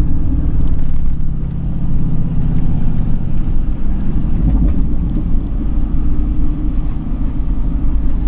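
A vehicle engine running steadily at low speed, a continuous low rumble with no hard revving.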